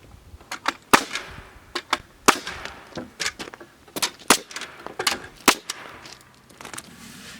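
About ten sharp cracking impacts, irregularly spaced and some in quick pairs: nails being driven into wood.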